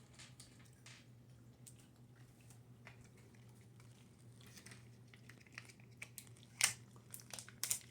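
Faint, scattered clicks and crinkles from small things being handled and eaten at a table, with two sharper clicks near the end.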